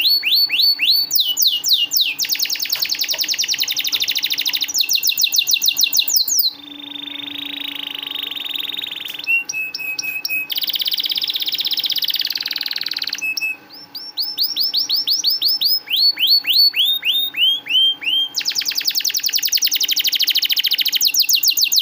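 Domestic canary singing a continuous song of rapid trills. Each phrase is a fast run of one repeated note and switches to a new note every couple of seconds, with a buzzy rolling phrase about seven seconds in.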